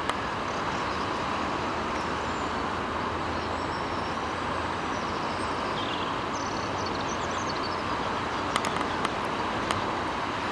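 Steady rushing of a river in flood, its water running high and fast over its banks.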